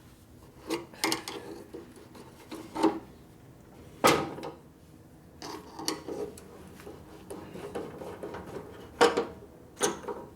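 Wheel axle of a 1967 Harley-Davidson FLH shovelhead being worked out of the hub: a series of sharp metal knocks with scraping and rubbing between them, the loudest knocks about 4 seconds in and about 9 seconds in.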